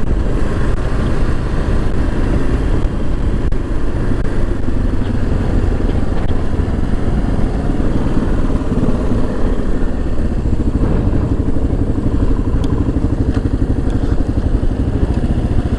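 Kawasaki KLR 650's single-cylinder four-stroke engine running steadily as the motorcycle is ridden.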